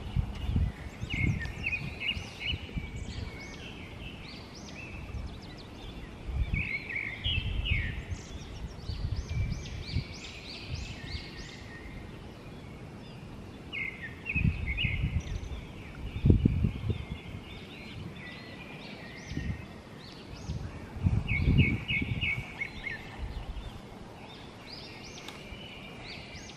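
Songbirds singing, with short phrases of quick chirping notes repeating every few seconds, and bursts of low rumble now and then.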